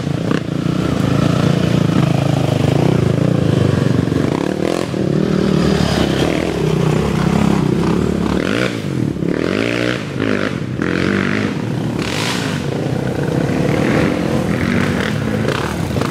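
Dirt bike engine running under throttle, its pitch rising and falling several times in quick succession a little past the middle as the rider revs it.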